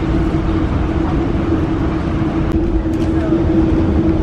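Steady running noise of a Metrolink commuter train heard from inside the passenger car: a deep rumble under a constant hum, with a couple of faint clicks about halfway through.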